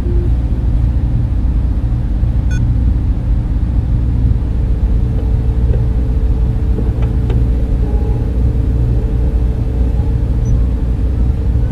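Data center ambience: a steady, unbroken low hum and whir of server cooling fans and air handling, with a faint constant tone over it.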